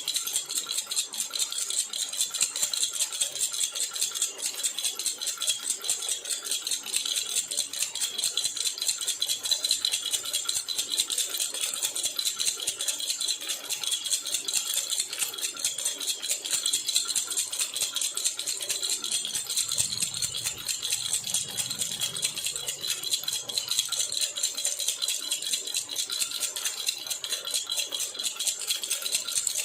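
Silver jhunjhuna (metal baby rattle) shaken steadily and fast, giving a continuous bright jingling rattle.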